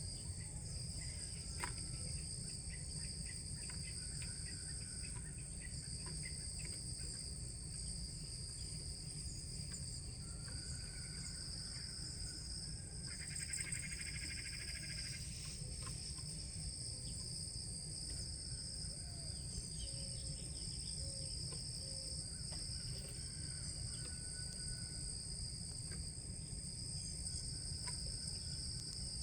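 Steady insect chorus of crickets or similar singing insects: two continuous high-pitched drones. Short bird chirps come and go over it, with a brief rapid trill about halfway through.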